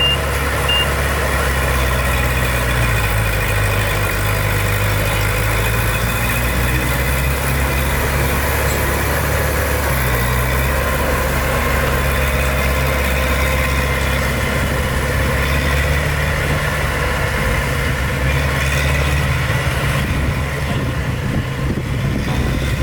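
Heavy diesel engine of a dump truck or bulldozer running steadily at low revs, with the last two reversing-alarm beeps in the first second.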